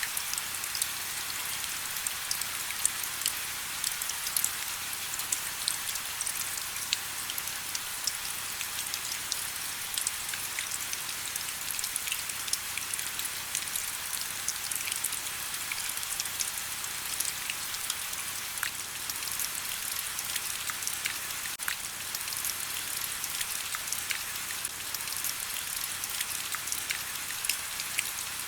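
Steady rain: an even hiss filled with many small, sharp drop ticks, with almost no low end.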